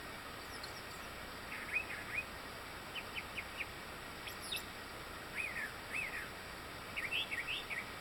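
Wild songbirds singing in woodland: small clusters of short chirps and whistled notes come and go, with fainter higher calls among them, over a steady background hiss.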